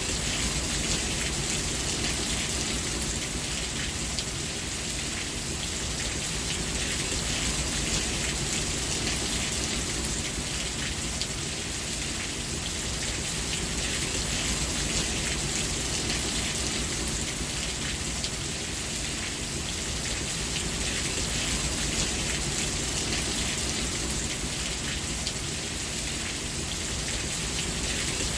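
Steady rain falling, with a dense patter of drops on a surface and a low rumble underneath.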